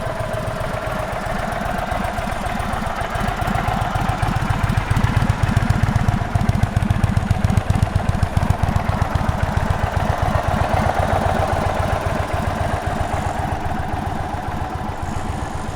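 Indian Sport Chief's Thunderstroke 116 V-twin idling with a steady low, lumpy pulse, a little louder in the middle.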